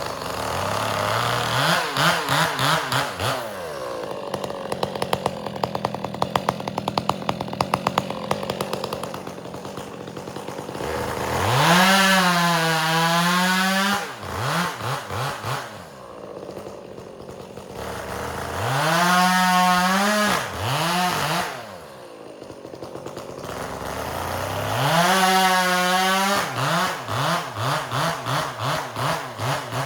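Chainsaw bucking firewood. The engine revs up to full throttle three times and drops back to a pulsing idle between.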